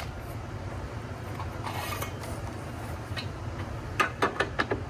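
Tools and metal hardware being handled: scattered clicks and clinks, a light scrape, then a quick run of sharp clicks near the end, over a steady low hum.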